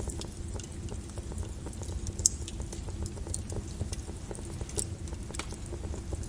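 Wood fire burning in a fireplace: a steady low rumble with scattered crackles and pops, the loudest pop about two seconds in.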